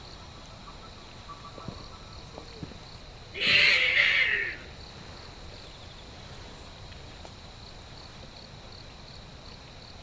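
A single short animal cry, about a second long and rising then falling in pitch, a third of the way in.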